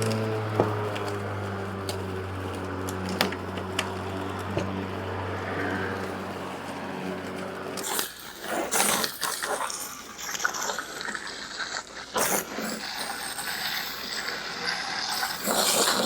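Battery-powered electric lawn mower's motor running with a steady hum and a few sharp clicks, shutting off abruptly about eight seconds in. After that come irregular knocks and rustles.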